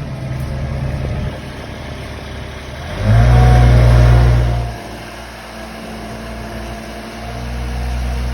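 An engine running steadily with a low rumble, rising to a louder burst for about two seconds near the middle before settling back.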